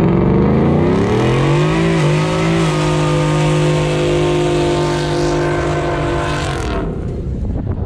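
A truck engine revs up and is held at high, steady revs for about four seconds, then the throttle is let off and the engine note drops away.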